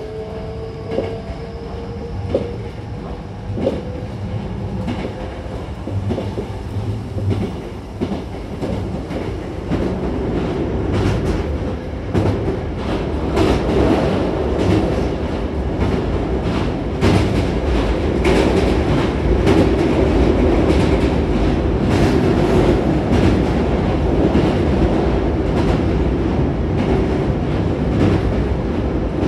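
Running noise heard from inside a Hankyu 9000-series commuter train underway: a faint motor whine rising slowly in pitch in the first few seconds, wheels clicking over rail joints, then a rumble and rapid clatter that grow louder from about a third of the way in as the train speeds up.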